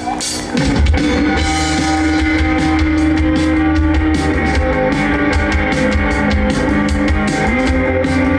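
Rock band playing live, with a drum kit and guitars. The full band comes in about half a second in and then plays on at a steady level.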